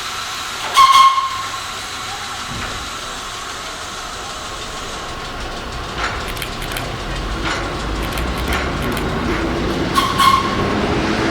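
Vintage R1-9 subway train with a steady air hiss, a short high pitched tone about a second in and again near the end. A low rumble builds from about halfway as the train gets under way.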